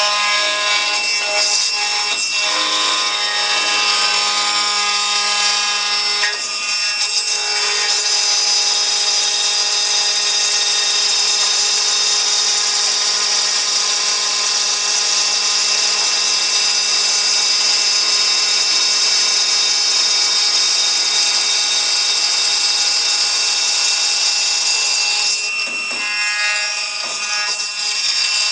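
Aluminium router (copy router) milling a lock slot in an aluminium window profile: a loud, steady high-pitched whine with cutting noise. It shifts during the first few seconds, holds steady through the middle and changes again near the end.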